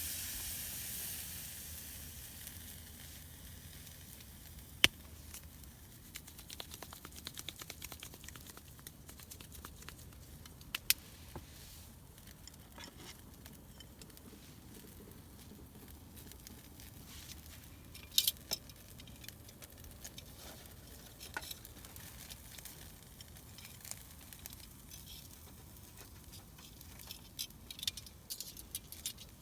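Sizzling and crackling over a campfire: a soft hiss fades over the first few seconds, then scattered small crackles and pops, with a few sharp clicks.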